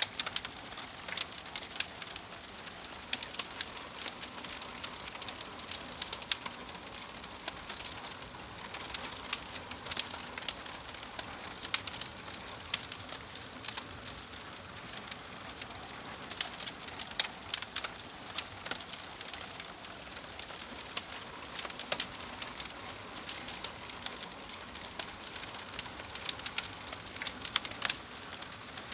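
Fire crackling: a steady soft hiss with frequent, irregular sharp pops and snaps.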